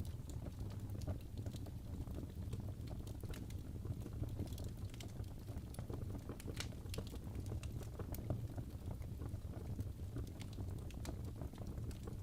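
Crackling wood fire in a fireplace: irregular sharp pops and crackles over a steady low rumble.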